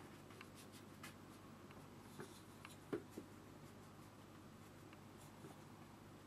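Faint scratching of a paintbrush stroking across watercolour paper, with a couple of light taps about three seconds in.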